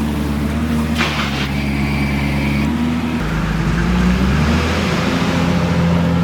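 Diesel engine of a backhoe loader running, its revs shifting up and down, with a brief hiss about a second in.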